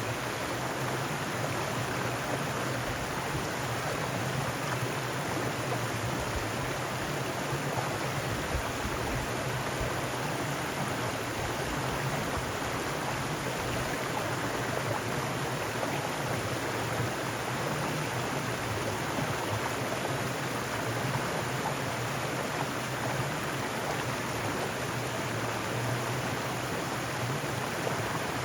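Mountain stream rushing steadily over rocks, a continuous even splashing and gurgling.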